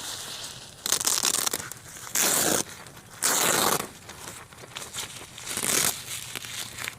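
Crinkly sheet material being handled, in four or five separate rough tearing or crinkling strokes about a second apart, each lasting about half a second.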